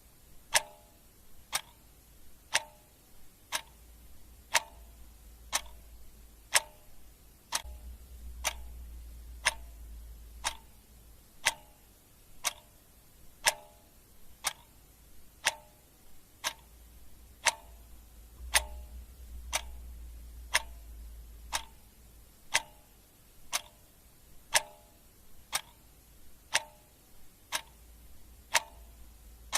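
Clock ticking steadily at about one tick a second, the ticks alternating slightly in strength like a tick-tock. A low rumble sits underneath and swells twice.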